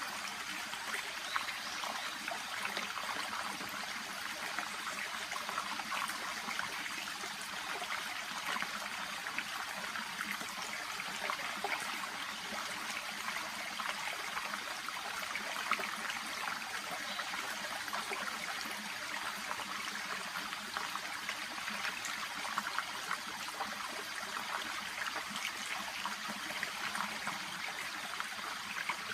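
A small shallow stream babbling and trickling steadily over stones, an even rushing hiss with fine splashy crackle.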